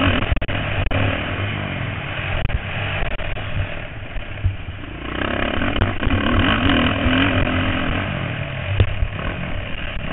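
Motocross bikes racing past, their engines revving up and down. The sound swells once at the start and again about five seconds in as riders come by.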